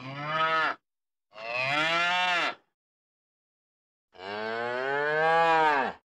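Three mooing calls laid in as sound effects, each a low pitched moo that rises a little and falls away: a short one, a longer one about a second in, and the longest near the end, with dead silence between them.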